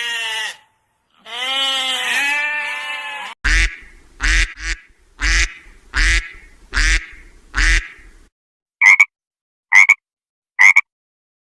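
Goat bleating: a wavering bleat running out just after the start, then a longer one. From about three and a half seconds in come short animal calls: six evenly spaced calls with a low thump, then four shorter, sharper calls near the end.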